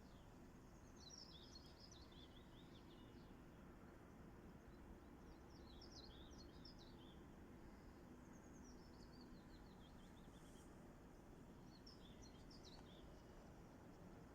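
Faint songbird song: one short phrase of quick notes falling in pitch, sung four times a few seconds apart, over a steady low background rumble.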